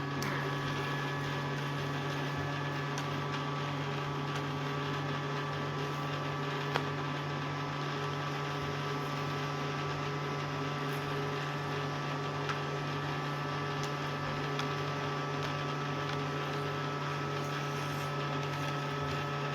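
Casdon Henry Hoover toy vacuum cleaner's small electric motor running steadily as it sucks up dust, an even hum with a few faint clicks.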